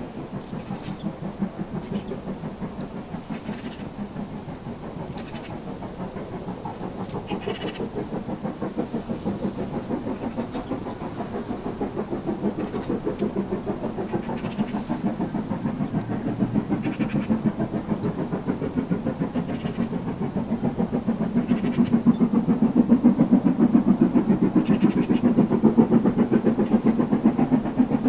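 Steam locomotive working a train, its rapid, even exhaust beats growing steadily louder as it approaches, with a few short higher sounds over it.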